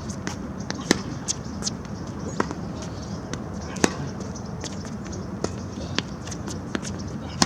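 Tennis rally: a ball struck by rackets and bouncing on the court, sharp pops about every one and a half seconds with fainter ticks between them.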